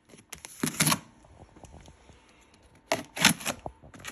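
Handling noise: short rustles and knocks in two clusters, about a second in and again near three seconds.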